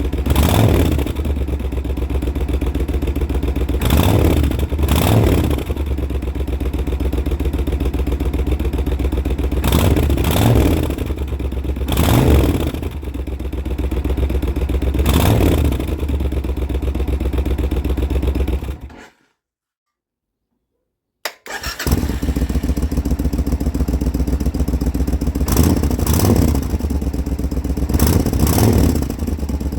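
Suzuki Intruder VS1400 V-twin idling through an adjustable rear muffler, blipped with short revs every few seconds. About two-thirds of the way through it dies away into silence for about two seconds, then runs again.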